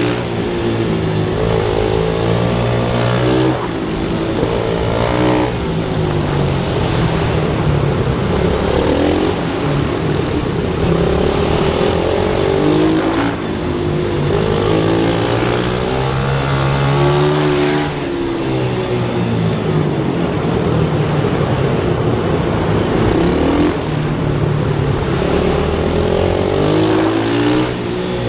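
Pit bike engines revving hard on track, the pitch climbing and dropping again every few seconds as the throttle is opened and closed.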